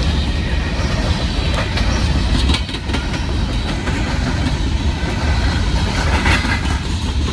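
Norfolk Southern coal train's hopper cars rolling past: a steady heavy rumble with wheel clatter over the rails, and a few sharp clanks about two to three seconds in.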